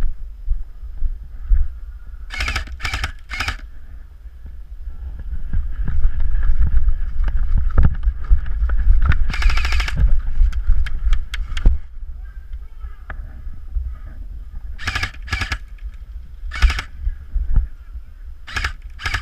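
Airsoft guns firing: short bursts and single shots, with one longer rapid full-auto burst about halfway through, over a heavy low rumble of wind on the microphone.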